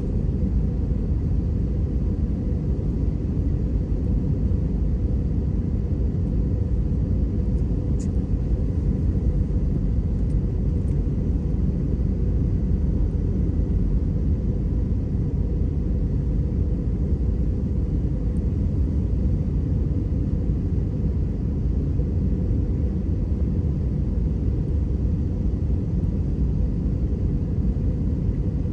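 Steady cabin noise inside an AirAsia Airbus A320 in flight: engine and airflow rumble, with faint steady tones above it.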